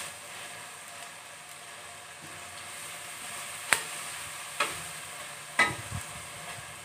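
Onion, tomato and green chillies frying in oil in a metal karahi, a soft steady sizzle, while a metal spatula stirs the masala; the spatula knocks against the pan three times in the second half. The tomatoes are being fried until they soften.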